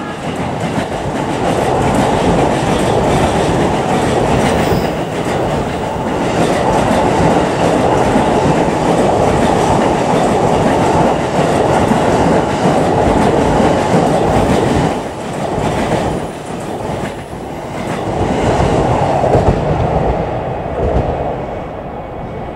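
JR East E531 series electric multiple unit passing through the station at speed: a loud, steady rush of wheels running on the rails, easing off near the end as the last cars go by.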